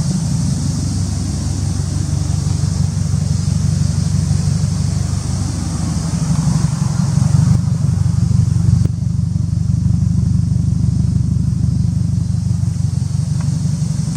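Subaru Impreza WRX STI (GDB) turbocharged flat-four idling through an aftermarket TOMEI exhaust manifold and GP Sports muffler: a steady, low, pulsing exhaust note.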